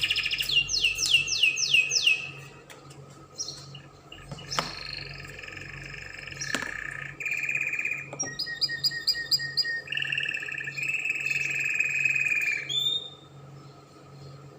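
Spanish Timbrado canary singing: a string of fast downward-sweeping notes, then long rolling trills and repeated-note phrases, stopping about 13 seconds in.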